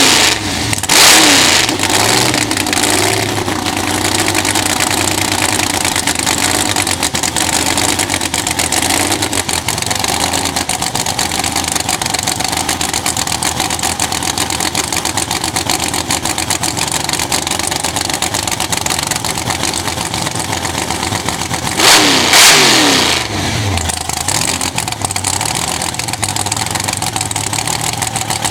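Supercharged V8 drag car engine idling loudly and unevenly. The throttle is blipped into a sharp rev about a second in and again about 22 seconds in, and each time the engine falls back to idle.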